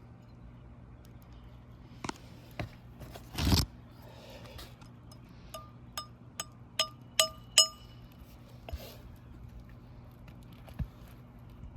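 A hammer driving roofing nails into a new asphalt shingle: six ringing metal-on-metal strikes about two and a half a second, each louder than the last. Before them come a few light clicks and a short scrape.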